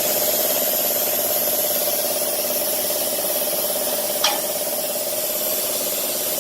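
Plasma cutter's arc cutting carbon steel: a steady hiss with a buzzing tone, and one short sharp click about four seconds in.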